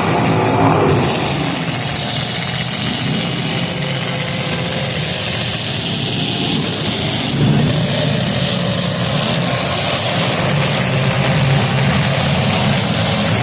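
Several demolition derby cars' engines running loud and revving, with a rev rising and falling about a second in and a brief louder hit about seven and a half seconds in.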